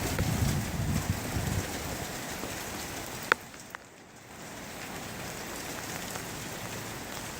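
Rain falling steadily, an even hiss of drops, with one sharp click a little under halfway through and a brief lull shortly after.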